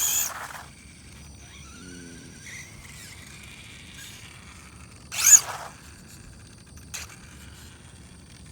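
Electric RC drag car with a 4.5-turn motor launching: a short, loud burst of motor whine and tire spin on takeoff, a faint rising whine as it runs off, then another loud burst a little after five seconds in. The tires are spinning on launch, a sign the car lacks rear grip after the motor was moved forward.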